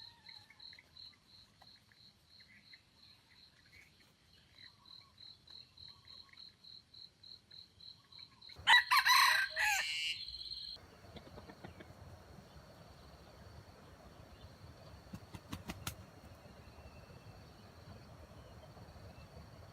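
A rooster crows once, loudly, about nine seconds in, over insects trilling in a steady pulsing chirp that turns into a continuous high drone after the crow.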